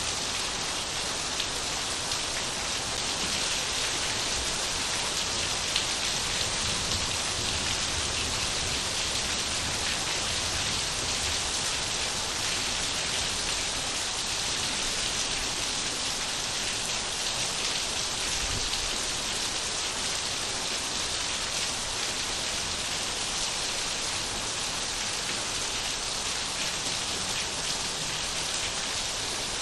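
Steady rain falling, an even hiss with the patter of drops on surfaces.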